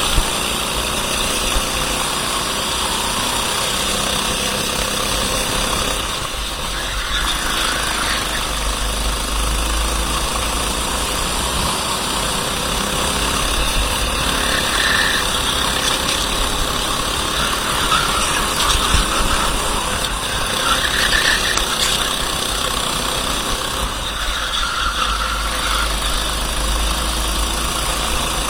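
Racing kart's engine running hard, heard onboard, with a steady rumble of wind on the microphone. Twice the sound eases briefly as the kart slows, then builds again.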